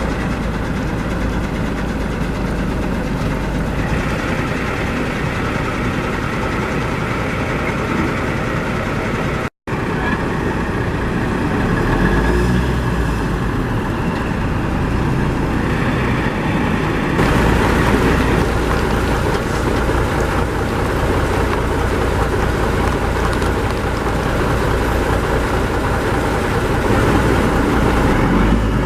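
1984 Freightliner dump truck's Cummins diesel engine running steadily, with the sound cutting out for an instant about a third of the way in and getting louder twice later on.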